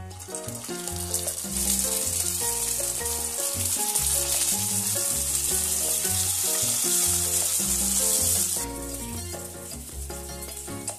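Rice-paper spring rolls sizzling as they fry in hot sunflower oil in a pan, a hiss that grows louder over the first two seconds and cuts off suddenly about two seconds before the end. Background music plays underneath throughout.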